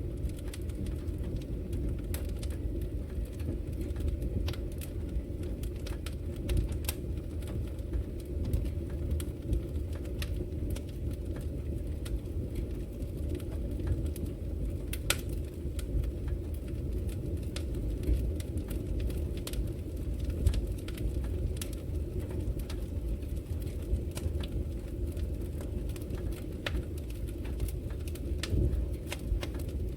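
Wood fire burning in a fireplace: a steady low rumble of flames with irregular sharp crackles and pops from the burning logs, several each second.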